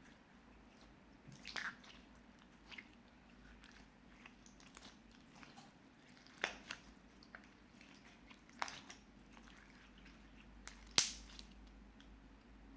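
Clear slime with small crystals mixed in, squished and worked by hand, giving faint sticky pops and crackles at irregular intervals, the loudest about eleven seconds in.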